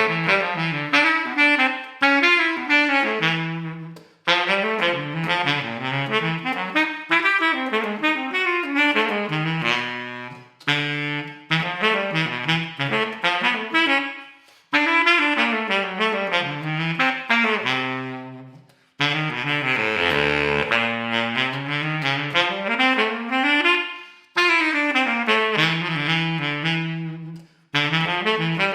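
Selmer Super Action 80 Serie II baritone saxophone playing a fast unaccompanied jazz etude line, in long phrases broken by short breath pauses, dipping to a very low note about two-thirds of the way through.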